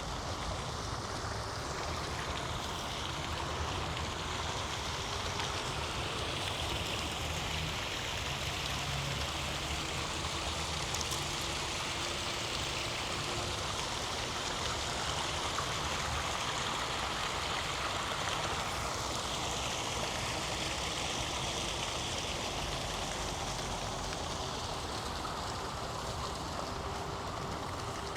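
Steady rushing of running water, with a faint low hum of traffic underneath.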